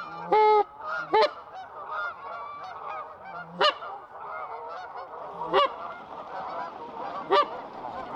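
A large flock of Canada geese honking in a continuous overlapping chorus. Five much louder single honks stand out, spaced about one to two seconds apart.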